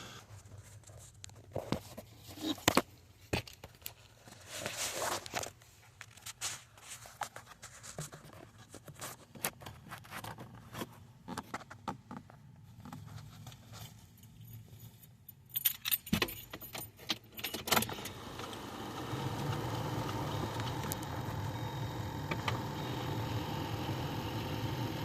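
Car keys jangling and clicking in irregular bursts, then a steady hum starts about three-quarters of the way through and keeps running.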